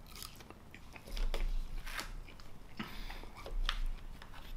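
Close-up chewing of macaroni and cheese: soft, wet mouth clicks and smacks, with two dull low thuds, about a second in and about three and a half seconds in.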